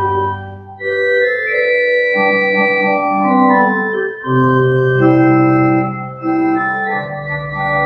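Organ playing the hymn tune alone, an instrumental interlude with no choir singing: sustained chords that change every second or so.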